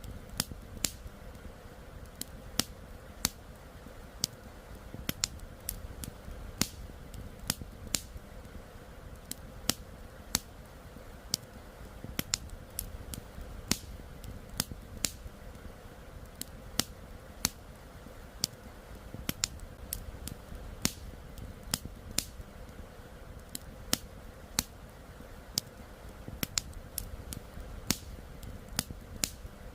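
Campfire wood crackling: sharp, irregular pops and snaps, one or two a second, over a steady low rushing noise.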